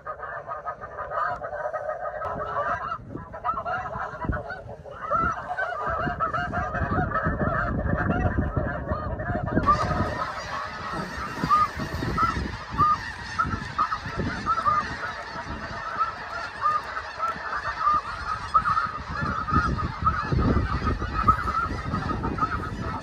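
A large flock of snow geese calling: a continuous din of many overlapping short, high honks, with a low rumble underneath.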